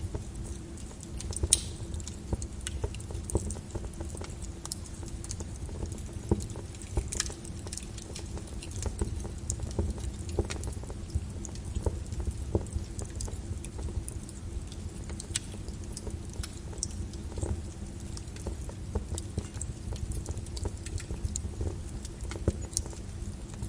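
Molten lava crackling and popping: irregular sharp snaps over a constant low rumble.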